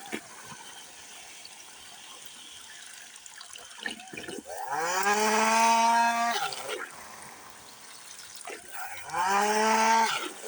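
Handheld vacuum cleaner's motor switched on twice while sucking up water. Each time its hum rises in pitch, holds steady for a second or two, then cuts off.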